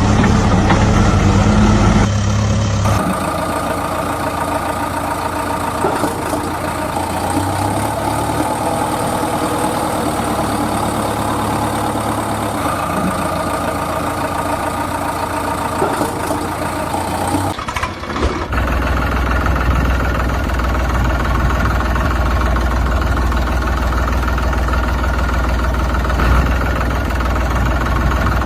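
Tractor engine idling steadily, with a low, even chug. The sound changes abruptly about three seconds in and again about eighteen seconds in, as if separate engine recordings were spliced together.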